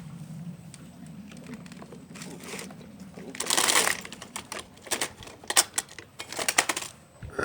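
Radio-controlled model excavator working: a low hum fades away, then a short scraping rush about halfway through, followed by a quick, uneven run of clicks and clatters.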